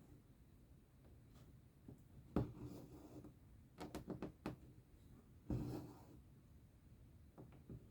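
Cross-stitching: a needle tapping through the fabric and thread drawn through it. There is a sharp tap about two and a half seconds in, a quick run of small clicks around four seconds, another tap at five and a half seconds, and a couple of faint ticks near the end.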